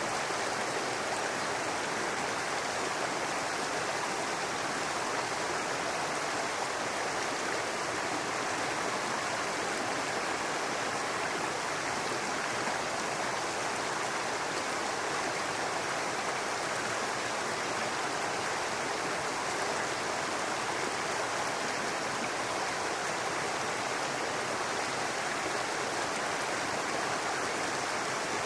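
A brook babbling over rocks, its water running in a steady, unbroken rush.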